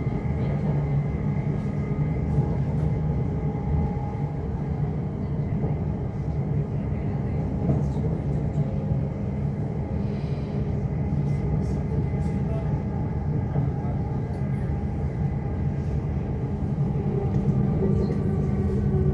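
Class 345 Elizabeth line electric train running at speed, heard from inside the carriage: a steady rumble of wheels on rails with a constant hum of tones over it and a few faint clicks.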